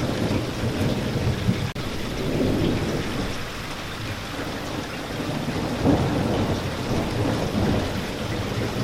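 Steady rain recording with low rolling rumbles of thunder swelling and fading. There is a split-second dropout in the sound just before two seconds in.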